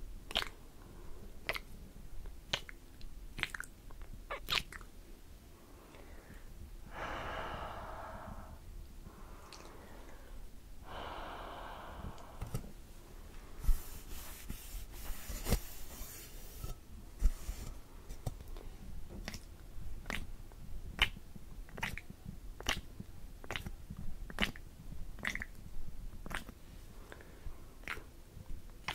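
Close-miked ASMR mouth sounds: wet clicks and smacks about once or twice a second. Midway there are two longer breathy stretches and a few seconds of rustling hiss.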